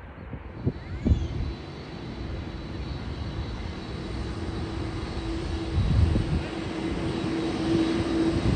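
Commercial jet airliner's engines droning, growing steadily louder as the plane passes close, with gusts of low rumble from wind on the microphone.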